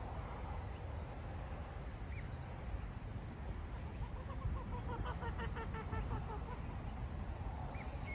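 A bird calls in a rapid run of repeated notes, about seven a second, for some two seconds around the middle, with a couple of brief high chirps from small birds before and after. A steady low rumble runs underneath.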